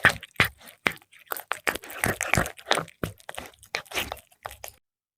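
A cat crunching and chewing fried milkfish: a quick run of sharp, crisp bites that stops suddenly near the end.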